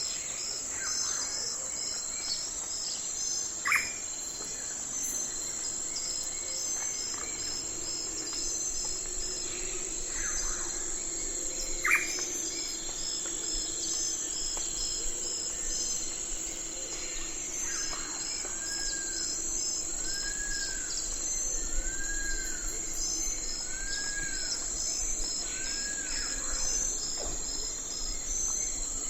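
Night forest ambience: a constant high-pitched insect chorus with rhythmic pulsing chirps, over which a bird gives two sharp downward calls and, later, a run of five arched whistled notes.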